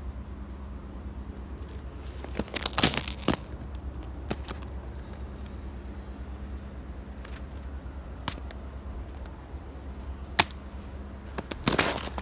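Footsteps crunching through a crust of ice on top of snow: a few separate crunching steps, then a quick run of them near the end.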